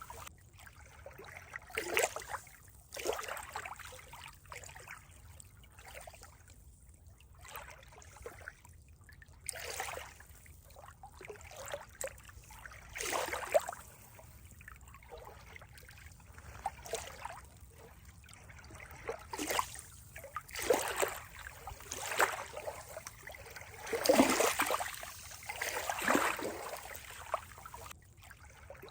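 Water trickling and splashing in uneven surges a second or two apart, the loudest about three quarters of the way through.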